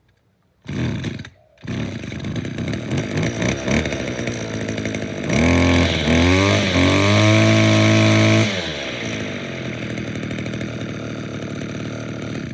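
Stihl FS 56 two-stroke string trimmer on a cold start: a short burst from the pull, then the engine catches about two seconds in and idles. Midway it is revved up to full throttle for about three seconds, then drops back to a steady idle.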